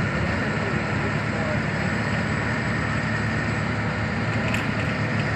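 Interior noise of a moving bus: the diesel engine running steadily with road and tyre noise and the body rattling, heard from inside the passenger cabin.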